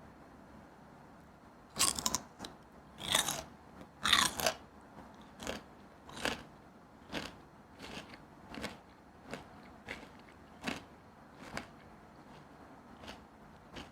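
Someone biting into crisp, crunchy food three times, then chewing it with a steady crunch a little faster than once a second, gradually getting fainter.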